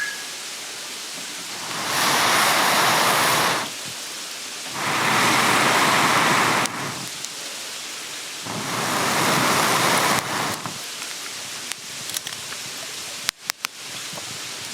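Three long slurps of ramen noodles and broth, each about two seconds, swelling and fading, with a few sharp clicks near the end.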